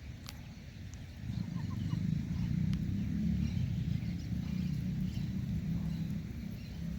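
Wind buffeting the microphone: a low, rumbling noise that swells about a second in and stays, with a few faint clicks over it.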